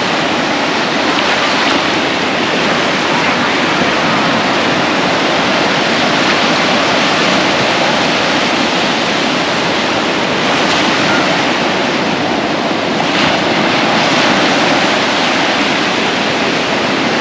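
Ocean surf washing onto a beach, a steady, loud rush of noise with no pauses.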